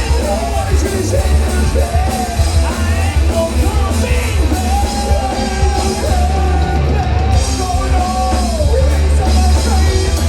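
Rock band playing live with a singer over heavy bass and drums, loud and without a break.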